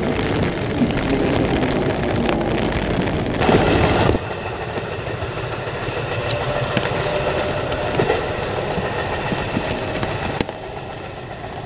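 Electric commuter train running away along the track: a steady rumble and wheel noise that drops off suddenly about four seconds in, leaving quieter steady noise with a few faint clicks.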